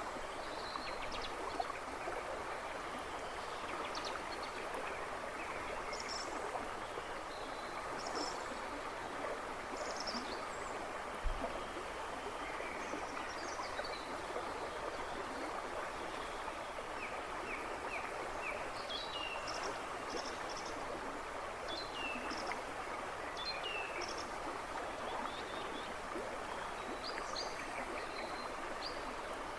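A river rushing and babbling steadily, with birds chirping and whistling in short notes throughout, more often in the second half. A brief low thump about eleven seconds in.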